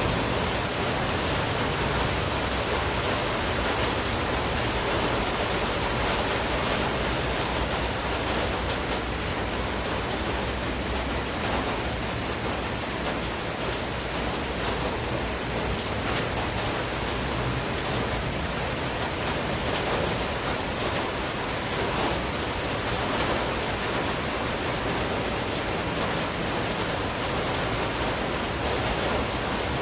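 Steady heavy monsoon rain falling, an even continuous hiss of downpour with no breaks.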